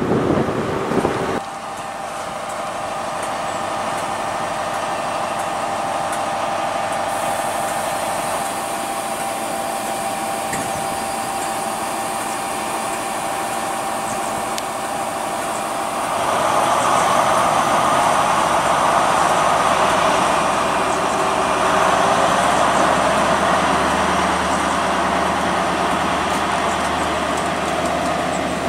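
GWR High Speed Train, a Class 43 power car with Mark 3 coaches, running along the platform: a steady rumble of wheels on rail with a thin steady note underneath. It grows louder about sixteen seconds in.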